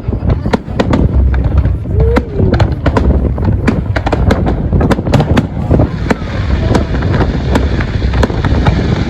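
Fireworks display: shells bursting in a rapid, irregular barrage of bangs and crackles, several a second, over a deep continuous rumble.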